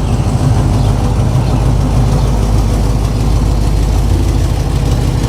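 A car engine idling, loud and steady, its sound weighted heavily toward the low end.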